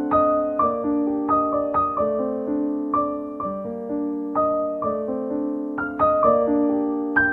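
Background piano music: gentle notes struck about twice a second, each ringing and fading over held lower notes.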